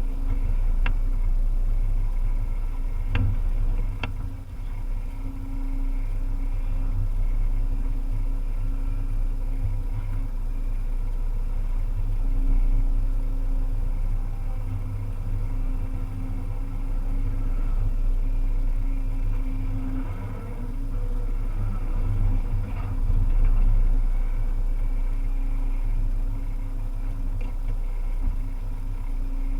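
Volvo EC300E excavator's diesel engine running steadily under working load, its pitch shifting slightly now and then, with a few sharp clicks or knocks in the first four seconds.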